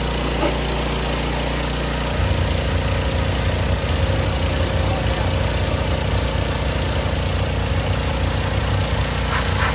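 Hot water pressure washer running: its engine drones steadily under a constant high hiss, and about two seconds in the engine note grows heavier and rougher, as under load.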